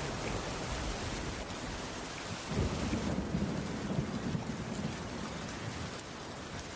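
Steady rainfall with a low rumble of thunder that rises about two and a half seconds in and fades out around five seconds.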